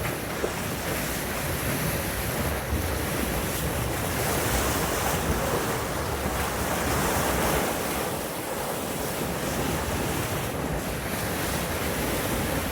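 Wind buffeting the microphone over the steady rush of sea water around a trawler yacht under way in a light chop.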